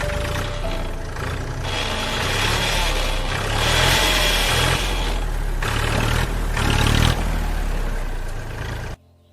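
Tractor engine running with a low rumble, swelling louder as it revs twice, then cutting off suddenly near the end.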